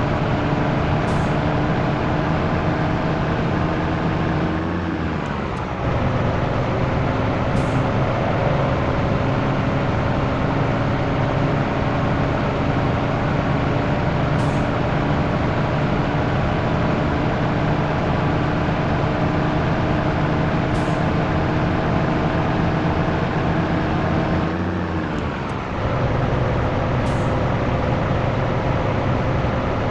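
Scania T113 truck's diesel engine pulling on the road. The revs climb slowly and then drop sharply at two gear changes, about five seconds in and again near the end.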